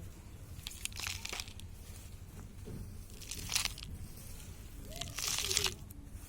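Dry soil being scooped and tipped into a plant pot, three gritty pours about two seconds apart.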